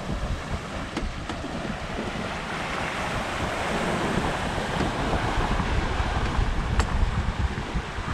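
Sea water rushing and sloshing past the hull of a Hallberg-Rassy 54 sailing yacht under way on a broad reach, with wind buffeting the microphone. The rush swells in the middle, and a few light ticks come through.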